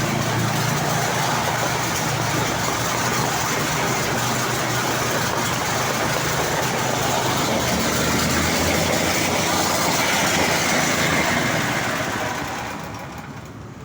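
Small petrol engine of a Mikasa engine-driven concrete vibrator running steadily, with a dense mechanical rattle over the engine note; the sound dies down near the end.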